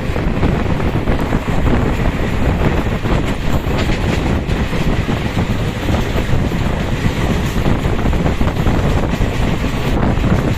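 Steady rumble and rattle of a moving train heard from on board, with wind buffeting the microphone.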